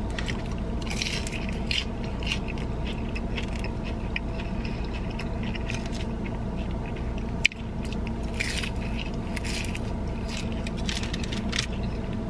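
Close-up eating sounds: biting and chewing crunchy chicken egg rolls, with scattered crunches and one sharp click about halfway through, over a steady low hum.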